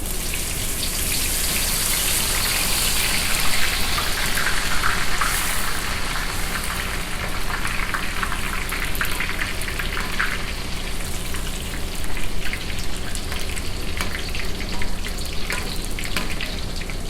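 Sliced spinach deep-frying in hot oil at about 200 °C: a dense sizzle full of crackles, fiercest in the first few seconds after the batch goes in, then settling into steadier crackling.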